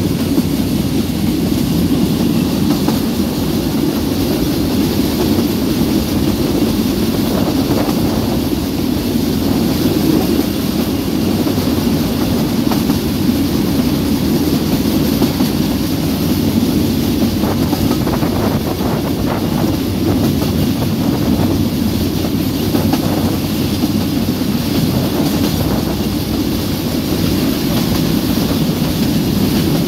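Narrow gauge passenger train running steadily, heard from on board the carriage: a constant low running noise of wheels on the rails.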